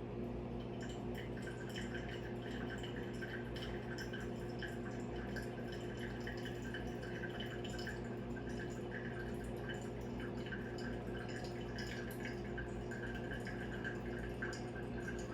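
Coffee trickling and dripping through a Hario V60 pour-over filter into the vessel below, beginning about a second in and going on as a fine, crackly patter. A steady low hum sits underneath.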